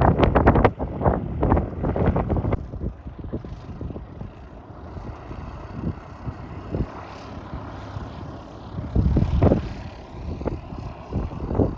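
Wind buffeting the microphone in irregular gusts, strongest in the first couple of seconds and again around nine seconds in, with a quieter rushing in between.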